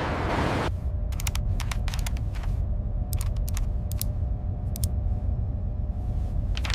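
A steady low rumble with many short, sharp clicks at irregular intervals; a hiss cuts off suddenly about a second in.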